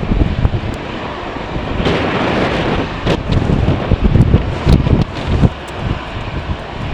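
Jet airliner engines running at the airport, a broad rushing noise, with strong gusty wind buffeting the microphone in irregular low thumps.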